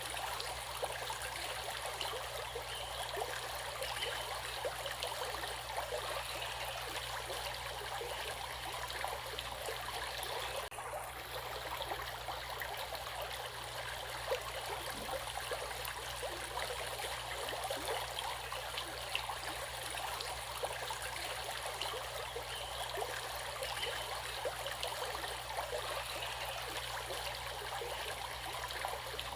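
Running water flowing steadily, an even babbling rush like a stream over stones.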